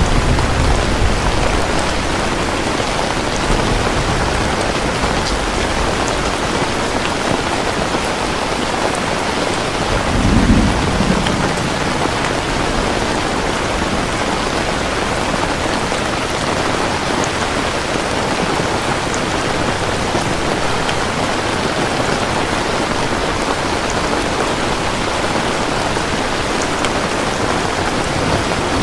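Steady rain, with distant thunder: a low rumble dies away over the first couple of seconds, and another short rumble comes about ten seconds in.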